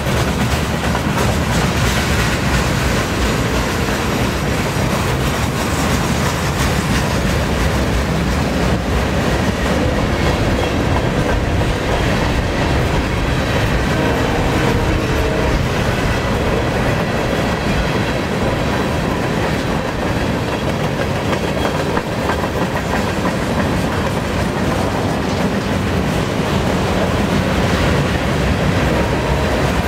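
Boxcars of a long freight train rolling slowly past: steady wheel-on-rail noise that holds at an even level throughout.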